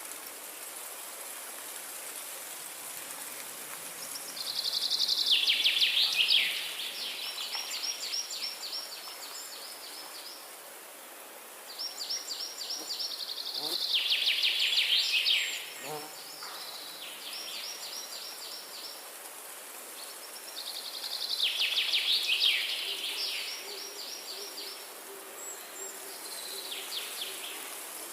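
A songbird singing the same rapid, trilled song phrase three times, about eight seconds apart, each phrase lasting two to three seconds and dropping in pitch partway through. A steady faint high hiss of insects or forest ambience runs underneath.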